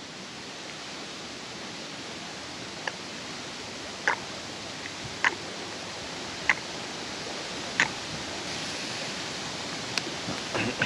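Steady rush of wind over the lake, with six short sharp clicks, about one every second and a quarter.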